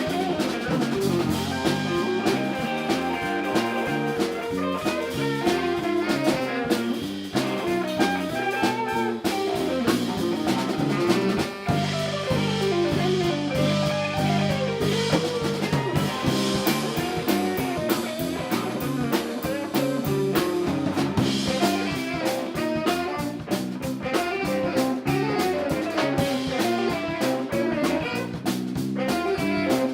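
Live band playing a jazzy blues number, with guitar lines over a drum kit groove.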